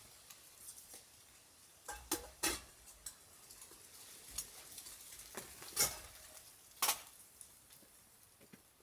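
Scattered sharp clicks and clatters of small hard objects being handled, the loudest a few knocks about two seconds in and near six and seven seconds.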